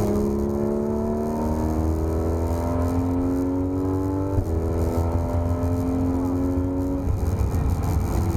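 Porsche 991 GT3 RS flat-six engine pulling hard under acceleration, its pitch climbing steadily. About four seconds in there is a quick paddle upshift, and near the end the engine note drops away as the throttle is lifted, over a steady low rumble of road and tyre noise.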